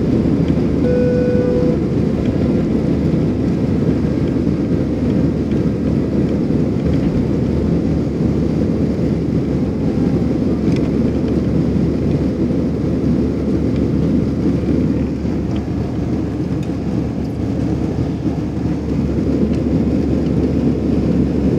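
Steady, loud cabin roar of an Airbus A320 with CFM56 engines at climb power, mostly low rumble of engine and airflow. A short steady tone sounds briefly about a second in.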